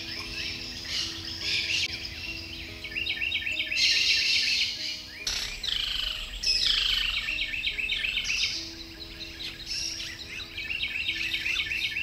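Birds calling: rapid repeated chirps and trills, with a few loud falling whistles around the middle. Soft background music with slow held notes plays underneath.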